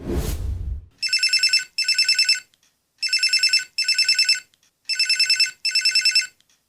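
A telephone ringing in a double-ring pattern: three pairs of short, rapidly trilling rings, each pair followed by a brief pause. A whoosh-like noise of about a second comes just before the first ring.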